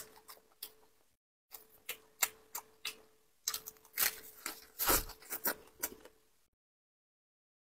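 Close-miked crisp crackles and wet clicks of a lettuce wrap of pork belly being folded, bitten and chewed, in irregular clusters. The sound cuts off abruptly about six and a half seconds in.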